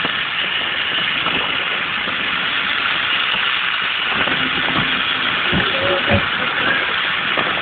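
Battery-powered GeoTrax toy train's small electric motor and wheels running on plastic track, heard close up from the onboard camera as a steady noisy whir.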